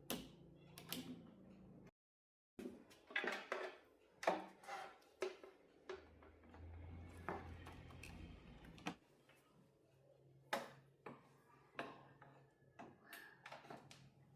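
Small hard objects being handled: scattered clicks, knocks and light clinks, with a short low hum around the middle.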